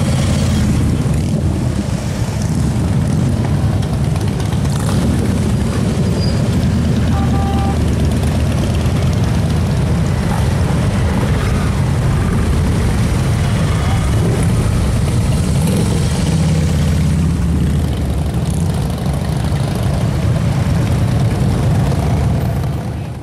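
Continuous low rumble of many motorcycle engines running together, a steady stream of bikes passing.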